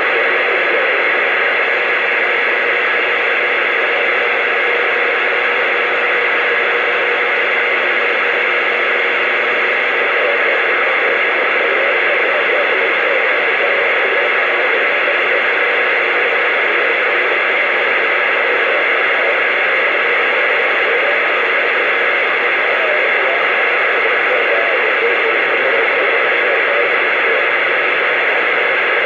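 CB radio receiver putting out a steady, loud hiss of static from its speaker, with no one transmitting on the channel.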